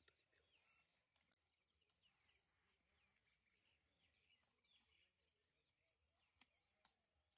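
Near silence: faint outdoor ambience with distant small bird chirps and a few faint clicks.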